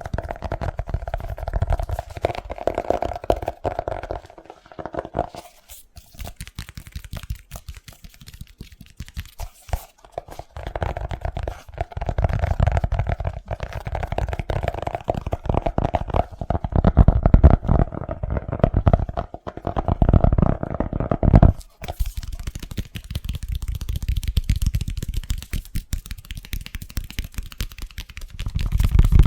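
Fast, hard fingertip tapping on objects, dense runs of taps in bursts with short pauses. In some stretches the tapped object rings with a hollow note.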